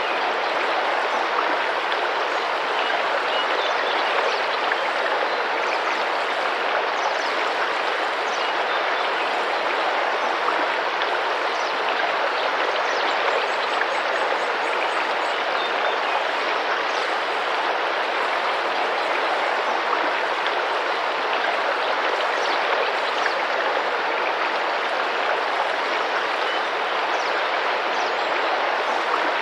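Tropical rainforest river: water splashing and running over rocks with a steady rush, and a few faint, short bird chirps high above it now and then.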